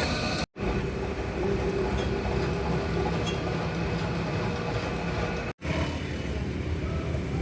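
A machine running steadily with a low hum, cut off abruptly twice, about half a second in and again some five seconds later.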